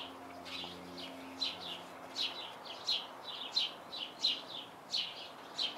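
A bird singing: a short, downward-slurred chirp repeated steadily, about one and a half times a second.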